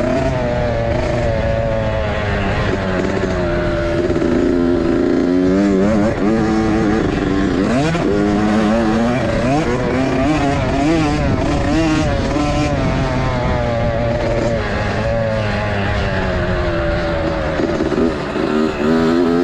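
Several motocross bikes running at once, their engines revving up and dropping back over and over as they ride round the track.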